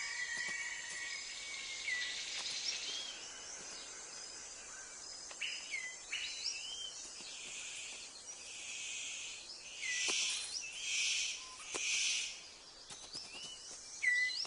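Rainforest sounds: scattered short whistled bird calls that rise or hook upward, with a run of four or five swelling bursts of high insect buzzing about two-thirds of the way through.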